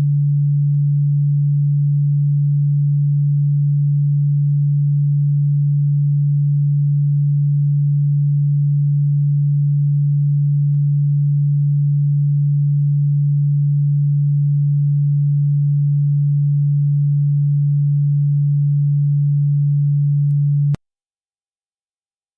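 A steady, low pure electronic tone at a single unchanging pitch, played as a supposed cockroach-repellent frequency. It cuts off suddenly near the end, leaving silence.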